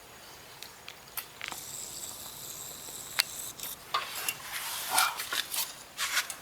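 Scattered metallic clinks and knocks of tools and loose parts being handled during a clutch and transmission teardown, with a short scraping stretch about a second and a half in and busier clinking near the end.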